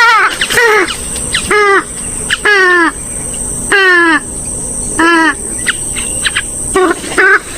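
Gallinules, swamphen or moorhen, giving loud harsh calls about seven times, each call falling in pitch.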